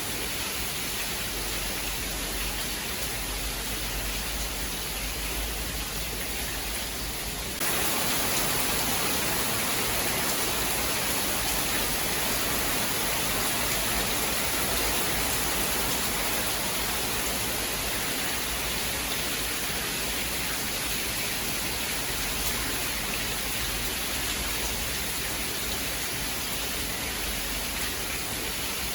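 Steady, dense hiss of rain. About eight seconds in, it abruptly becomes louder and brighter, then holds steady.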